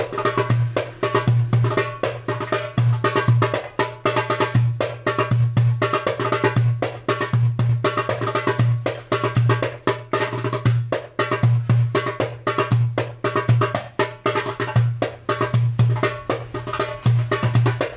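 9-inch darbuka with a Remo head played in a steady, fast rhythm: deep low bass strokes recurring regularly among quick, sharp, crisp strokes near the rim.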